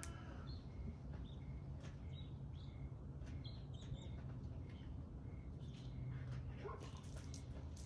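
Small birds chirping, short high notes repeating every half second or so, over a steady low hum, with a few faint clicks near the end.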